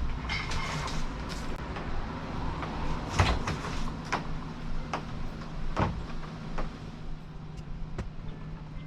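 Handling noise while a kayak is hooked to a winch cable: a series of sharp knocks and clunks, about one a second through the middle, over a steady low hum.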